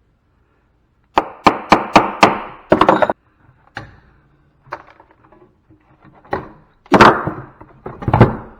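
Sharp metal knocks and clanks from scrap equipment being worked apart by hand: a run of five quick strikes about four a second, then scattered knocks, the loudest near the end.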